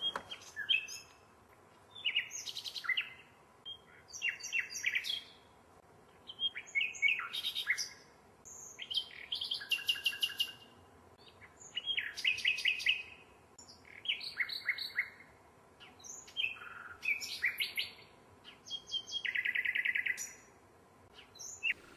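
A bird singing in short phrases of rapid chirps and trills, one every couple of seconds, with a longer even trill near the end.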